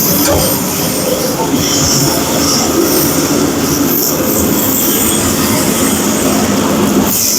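Cutoff tool with an abrasive wheel cutting into the steel frame, a loud continuous screeching grind.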